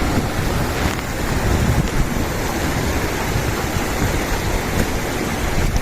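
Steady rushing roar of a waterfall running high with water.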